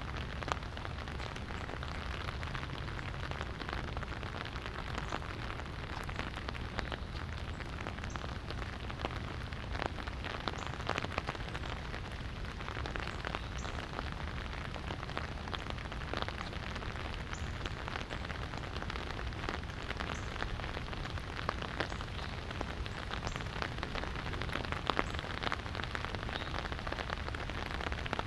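Light rain falling, a steady hiss of rain with scattered drips and raindrop taps on nearby surfaces.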